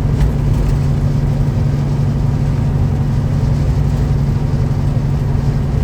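Peterbilt 379 semi truck's diesel engine droning steadily while cruising at highway speed, with road noise underneath.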